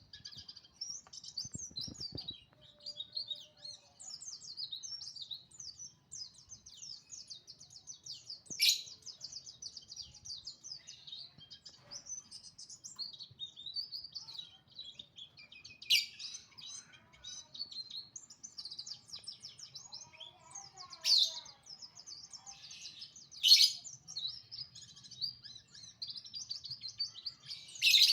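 White-eye (pleci) singing: a long, fast run of high twittering, broken by five louder, sharp notes spaced several seconds apart.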